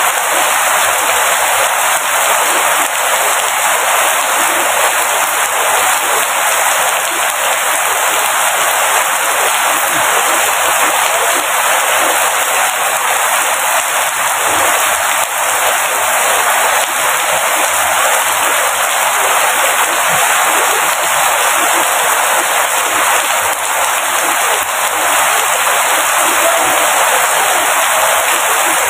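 Rain falling steadily: a dense, even hiss made of many small drop impacts, unchanging throughout.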